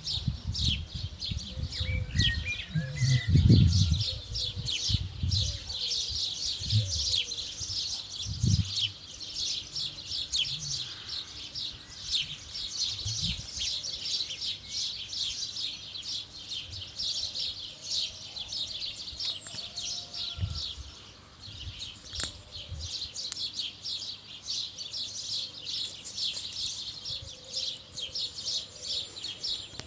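Small birds chirping continuously, a dense run of short, high chirps. Low rumbles of wind or handling on the microphone come through during the first nine seconds or so.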